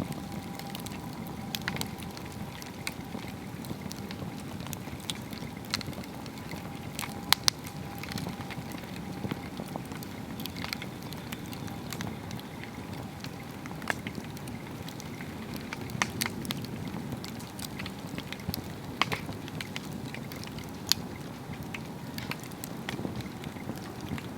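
Swedish torch, a slit upright log burning from inside, with a steady low rush of flame and scattered sharp crackles and pops; two loud pops come close together about seven seconds in.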